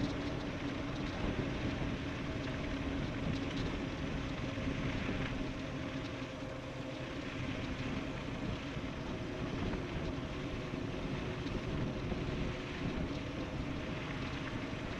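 Steady rush of wind and tyre noise from an e-bike riding fast downhill, with a faint steady hum underneath.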